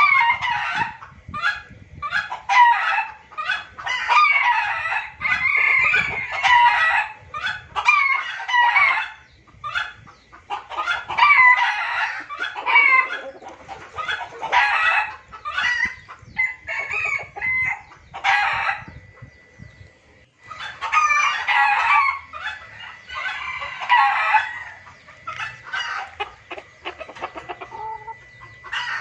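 A noisy chorus of junglefowl calling over one another: clucking, cackling and crowing calls packed close together, with a short lull about two-thirds of the way through. This is a lure recording meant to draw wild junglefowl in.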